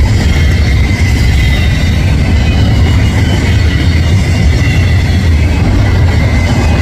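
Freight train's double-stack container cars rolling past at close range: a steady, loud low rumble of wheels on rail with a thin, steady high ring on top.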